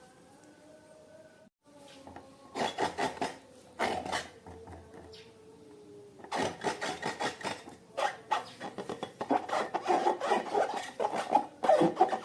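Slime being mixed and squished, a quick crackling and clicking. It comes in two short spells a few seconds in, then runs on and grows louder from about halfway.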